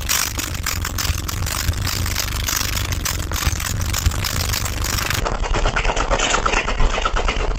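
Loud, deep bass from a car audio system's subwoofers, with wind buffeting the microphone. About five seconds in, the sound cuts abruptly to another bass demo, lower and steadier.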